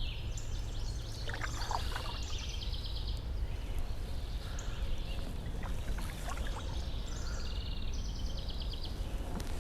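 A songbird sings two high trilled phrases, one near the start and one near the end, over a steady low rumble, with light water splashes and drips from the canoe.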